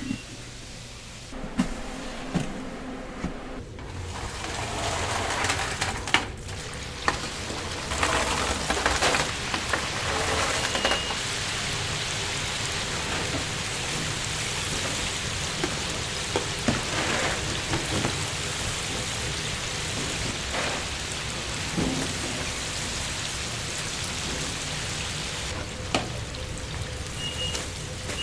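Chicken pieces deep-frying in hot oil: a steady sizzle that swells up about four seconds in, with a few sharp clinks of utensils.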